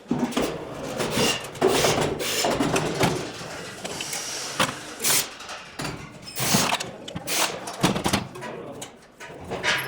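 Irregular knocks and clatter of metal parts being handled and fitted while a rotary tiller is mounted on a small tractor.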